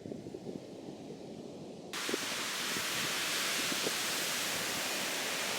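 Muffled low rumble with faint knocks, then about two seconds in a sudden switch to a steady, even hiss of beach surf and wind.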